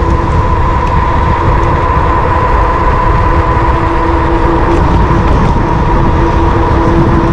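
Wind rushing over an action camera's microphone on a moving electric bike, over the steady whine of the bike's electric motor.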